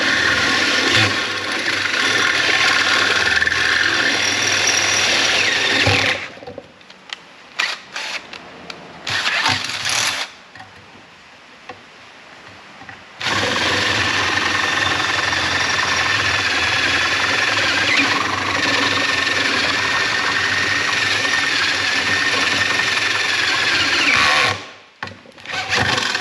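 Power drill with a larger bit boring plug-weld holes through sheet-steel floor panel, the motor running under load with a steady whine. It runs in two long stretches, the second of about eleven seconds, with a few short bursts of the trigger between.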